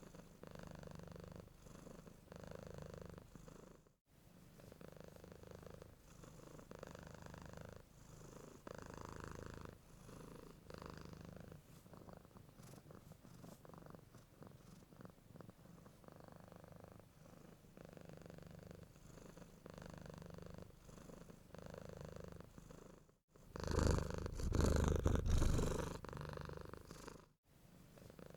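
Domestic cat purring, a low rumble that swells and fades with each breath. Near the end it grows much louder for about four seconds, between two brief cut-outs.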